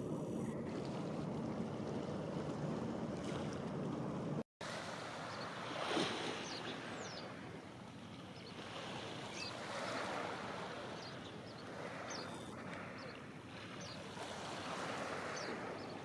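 Waves washing onto the shore, swelling and fading every two to three seconds, with scattered short high chirps over them. Before a sudden cut about four seconds in, a steadier low rumble with wind on the microphone.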